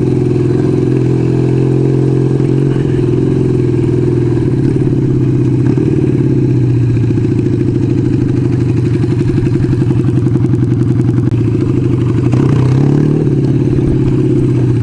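1975 Kawasaki KZ400S parallel-twin motorcycle engine running while being ridden, its note shifting slightly up and down with the throttle.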